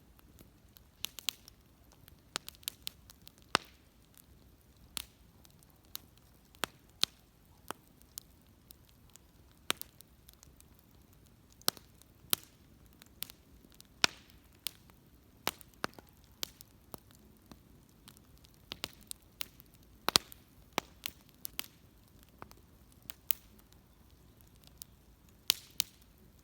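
Wood fire crackling, with sharp irregular pops and snaps from the burning wood, a few of them much louder than the rest.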